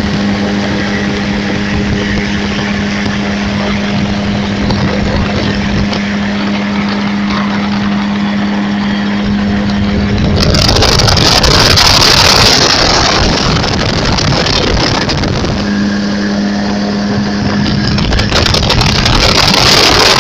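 An engine running at a steady pitch, its hum giving way twice to a loud rushing, wind-like noise: once for a couple of seconds just past the middle, and again near the end.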